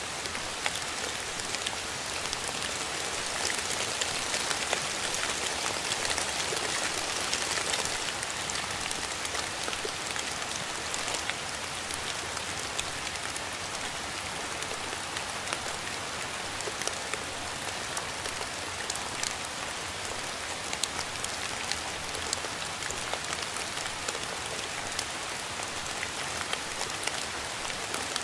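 Steady rain falling, a dense patter of drops with many single drops ticking out sharply on a surface. It is briefly a little heavier a few seconds in.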